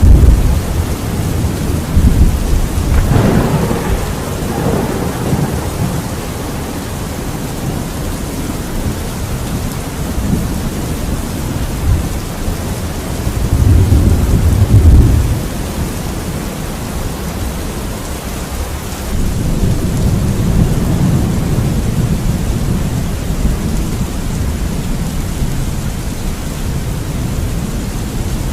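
Thunderstorm: a steady hiss of heavy rain under rolling thunder. A crack of thunder comes about three seconds in, and deep rumbles swell again around 14 and 20 seconds.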